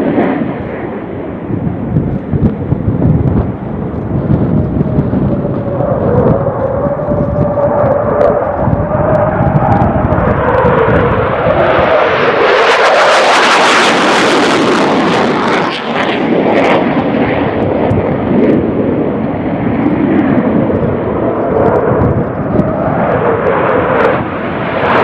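F-15 Eagle fighter jet's twin turbofan engines in a low-level pass. The jet noise builds to its loudest about halfway through, with a whine that slides down in pitch as the jet goes by.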